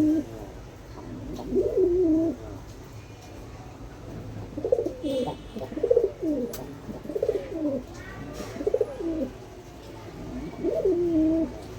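A bird cooing in low, rolling phrases: one about two seconds in, a quick run of repeated coos from about five to nine seconds in, and another near the end.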